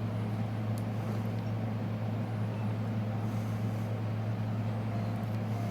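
A steady low hum with even background noise and no distinct events.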